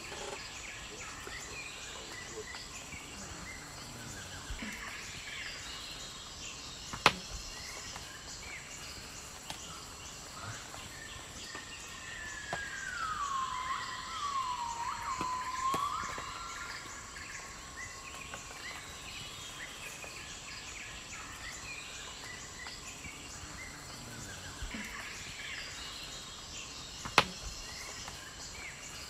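Outdoor ambience of faint bird chirps and insects, with one louder whistled bird call in the middle that slides down in pitch and then dips twice. Two sharp clicks, the loudest sounds, one about a quarter of the way in and one near the end.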